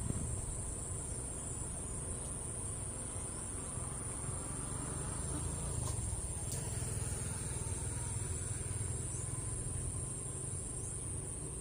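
Insects chirring in one steady, high-pitched drone, with a low rumble underneath.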